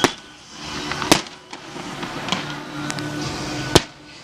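Fireworks going off: several sharp bangs, the loudest right at the start, about a second in and near the end, with music playing underneath.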